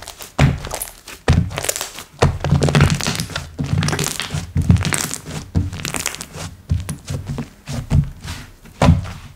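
Slime being squished and pressed by hand: irregular dull knocks a few times a second, with crackling between them.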